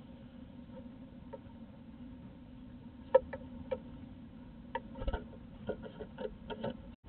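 A great tit's feet and beak tapping and scratching on the wooden floor of a nest box, an irregular scatter of sharp ticks that begins about three seconds in, over a steady low hum.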